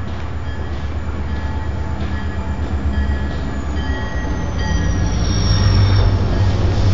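CN diesel freight locomotives rumbling past close underneath, growing louder as they pass. A high-pitched whine comes in about halfway through, slides down in pitch and then holds.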